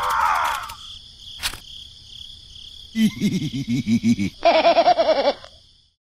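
Edited-in cartoon-style sound effects: a rising swoop, a sharp click, then two bursts of quickly wobbling pitched tones, the second higher than the first, over a steady high-pitched chirring. The sound fades almost to nothing near the end.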